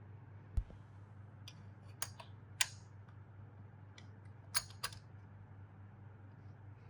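A few sharp clicks and taps of small hard parts being handled, with a dull knock about half a second in, over a low steady hum.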